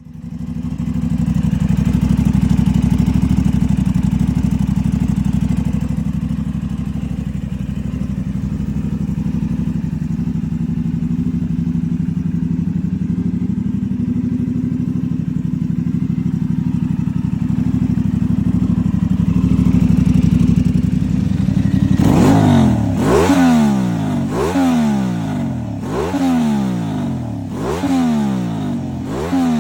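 Aprilia RS660's parallel-twin engine breathing through an aftermarket ZIVV Project exhaust, idling steadily for about twenty seconds. Near the end it is revved in a series of quick throttle blips, each a rising then falling rasp, roughly one a second.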